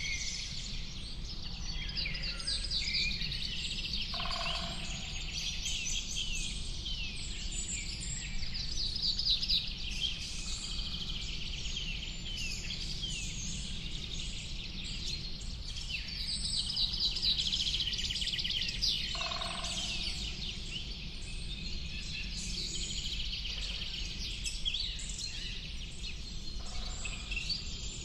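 Dense chorus of many small birds chirping and trilling over one another, with a lower, shorter call standing out twice, about four seconds in and again near twenty seconds. A steady low rumble runs beneath.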